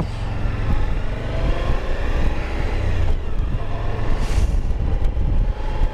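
Suzuki V-Strom 1050's V-twin engine running on the move, its pitch sliding up and down, under a heavy low wind rumble on the microphone.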